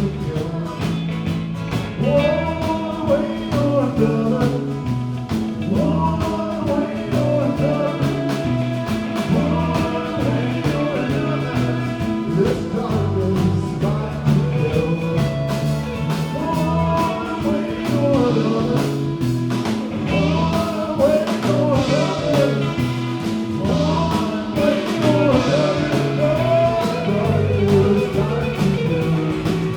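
A live band playing a rock song: a singer over electric guitar, a moving bass line and a steady beat.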